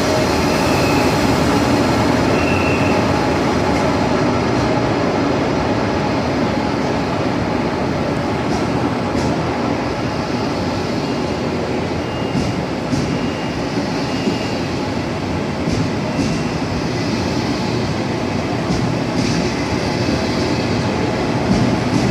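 A train running along the track: a steady noise of wheels on rails, with a few short high squeals and light clicks, the clicks mostly in the second half.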